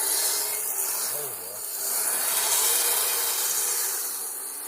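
Electric RC snowcats (Kyosho Blizzard) running their tracks through snow: a high hiss that swells and fades as they are throttled and spun.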